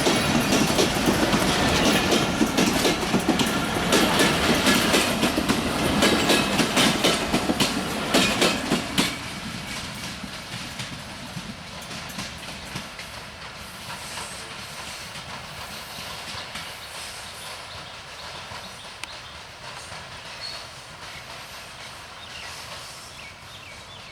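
Broad-gauge express passenger train rolling past, its wheels clicking rapidly over the rail joints. About nine seconds in, the train has passed: the sound drops off sharply and then fades away steadily as it recedes.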